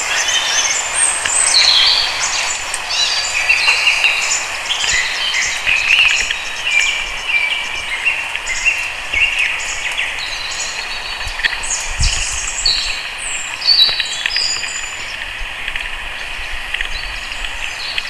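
A chorus of birds calling, with many short chirps and trills over a steady hiss. It is busiest in the first half. A low thump comes about twelve seconds in.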